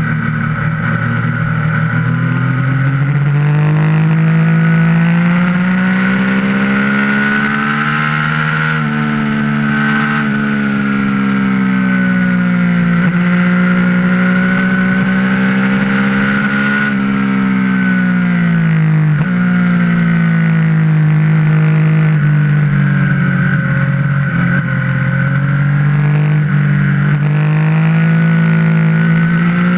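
Yamaha MT-09's three-cylinder engine running under way. Its pitch climbs and falls over several seconds at a time, with a few abrupt steps in pitch.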